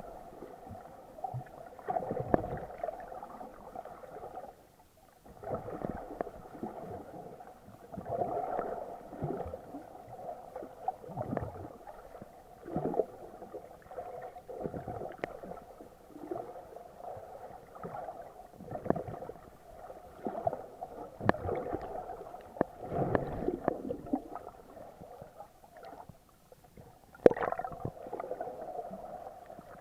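Water sloshing and gurgling against an action camera in its waterproof housing while snorkeling, muffled, with irregular surges every second or two and a sharper splash near the end.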